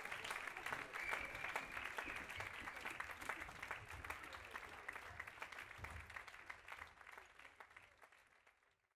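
Audience applauding, dying away to silence near the end.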